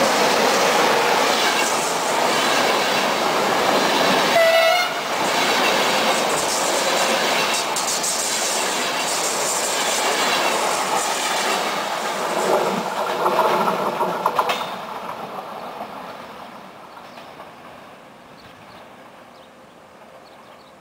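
A train passing close by, its wheels clattering on the rails, with a brief horn blast about four seconds in. The noise drops off sharply about fourteen seconds in and fades away as the train recedes.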